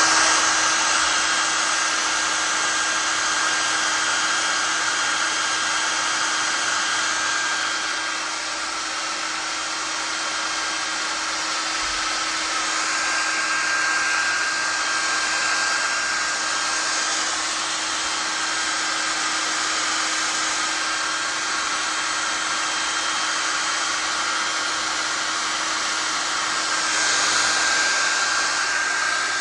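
Hair dryer running steadily: a rush of blown air with a steady motor whine, swelling slightly a couple of times.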